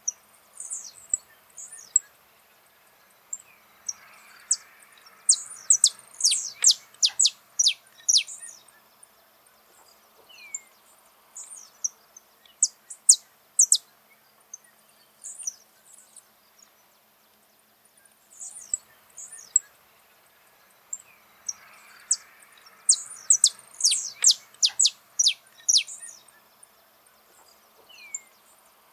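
Saffron finch singing: bouts of several seconds made of quick, sharp, high-pitched chips and short trills, with pauses of a few seconds between bouts.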